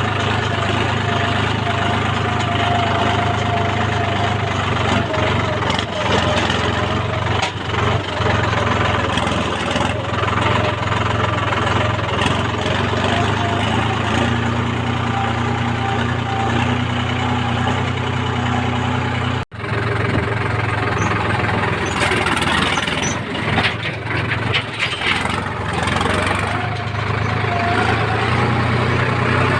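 Heavy diesel engine running steadily at work, with a steady higher tone above its low hum. The sound cuts out for an instant about two-thirds through.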